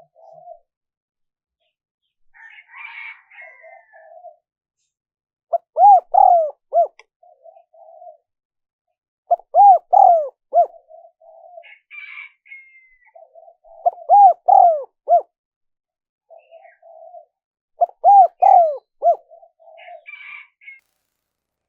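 Spotted dove cooing: four loud phrases of several arching coos, about four seconds apart, with softer coos in between. Brief higher chirps from another bird come in now and then.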